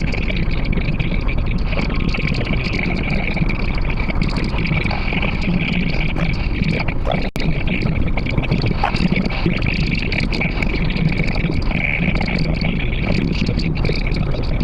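Steady car road and engine noise picked up by a dashcam inside the cabin while driving, with a sharp momentary dropout about seven seconds in.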